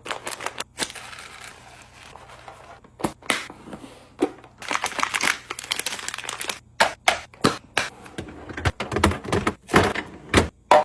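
Groceries and containers being handled and set into a fridge: a run of sharp clicks and clacks, with a longer stretch of rustling and crinkling packaging near the middle.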